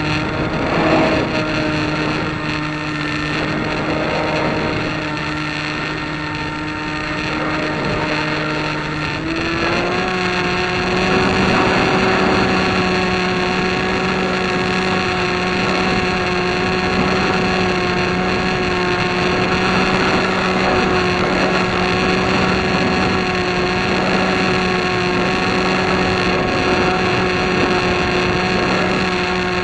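An engine running steadily, with its pitch stepping up about nine seconds in and then holding at the higher speed.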